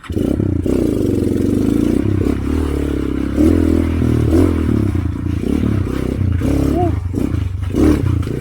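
Motorcycle engine running under load. It comes in abruptly at the start, and its pitch rises and falls as the throttle is worked.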